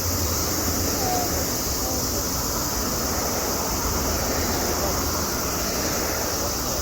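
Crowd murmur: many people talking at once, blurred together, over a steady high hiss.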